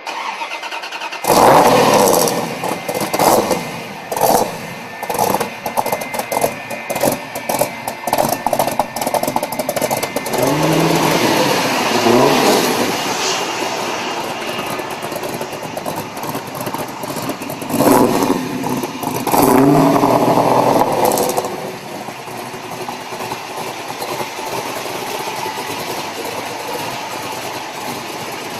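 Car engine catching about a second in and being blipped in short bursts, then revved up twice, around ten and eighteen seconds in, before it settles to a steady run.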